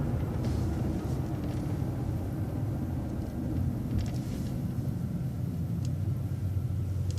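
Steady low rumble of a city transit bus driving along, engine and road noise heard from inside the bus, with a few faint short rattles.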